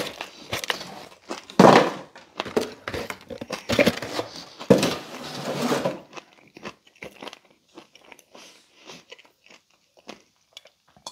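Close-miked chewing of a Pizza Hut Melt: crunchy bites and mouth sounds. The chewing is louder for the first six seconds, then turns quieter and sparser.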